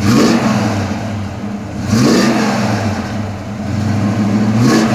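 1970 Chevrolet Chevelle SS's 396 big-block V8, breathing through short headers and 2.5-inch exhaust pipes, idling and blipped three times, each rev rising quickly and dropping back to idle.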